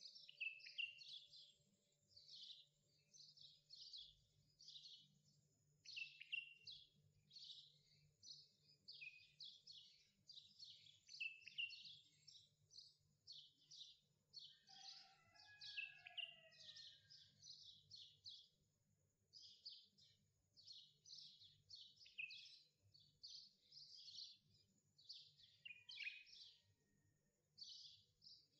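Faint birdsong: small birds chirping in quick high runs, over a faint low hum.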